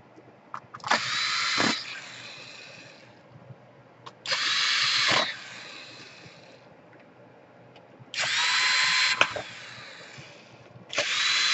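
Small electric screwdriver run in four short bursts of about a second each, its motor whine rising as it spins up each time, while working the screws of a laptop case.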